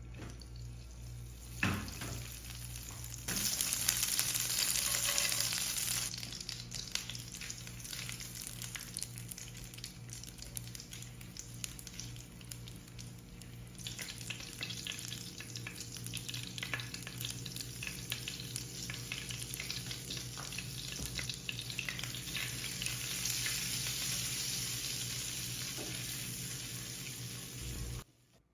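Food frying in a pan: a continuous sizzle with fine crackling, which swells loudly for a few seconds just after a knock early on and again later, over a steady low hum.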